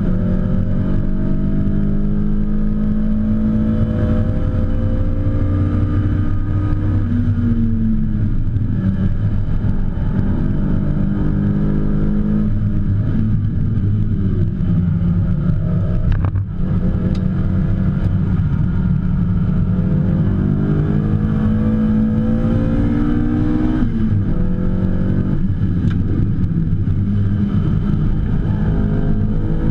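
BMW E30 M3's four-cylinder engine run hard on a race track, heard from inside the cabin: the revs climb and drop repeatedly through gear changes and braking, with a short sharp lift about sixteen seconds in.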